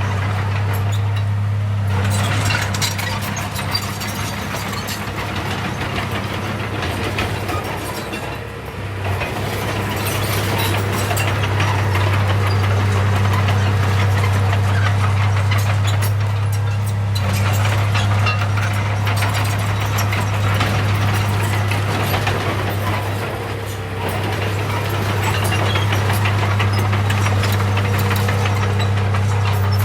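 Diesel engine of a heavy earthmoving machine running steadily, easing off briefly twice, with continuous rattling and crackling over it.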